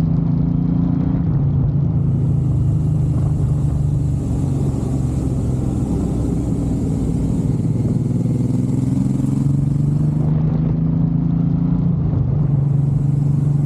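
Suzuki M109R's large V-twin engine running at a steady cruising pace under way, its pitch shifting slightly now and then.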